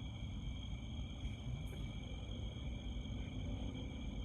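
Crickets trilling steadily in several unbroken, even pitches, over a low background rumble.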